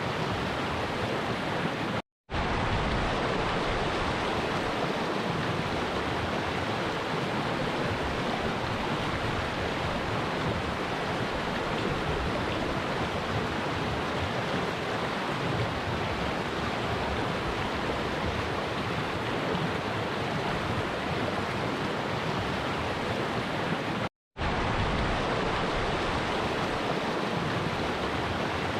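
Stream water flowing with a steady rush. It cuts out to silence for a split second twice, once about two seconds in and again later on.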